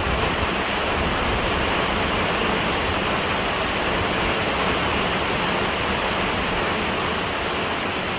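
Heavy downpour of rain, a loud, steady, even rush of noise with no break or thunderclap.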